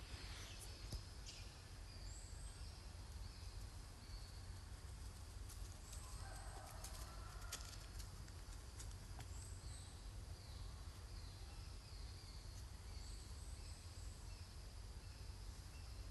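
Faint outdoor ambience: a steady low rumble, with short, high chirping calls, some falling in pitch, repeating throughout and a few light clicks.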